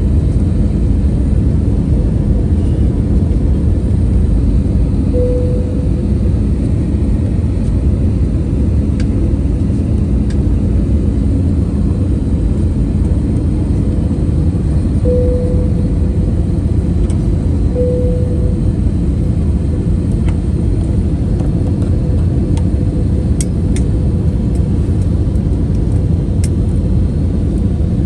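Steady low roar of an airliner's cabin in flight, the engine and airflow noise heard from a passenger seat. Three short, faint, steady tones come through in the middle, and a few faint clicks near the end.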